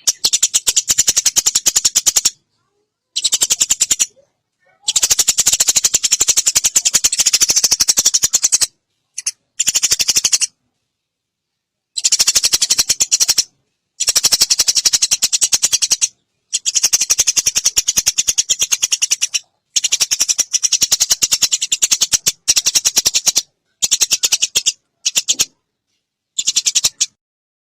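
Eurasian tree sparrow chattering: dense, rapid runs of high chirps in stretches of one to four seconds, broken by abrupt gaps of silence.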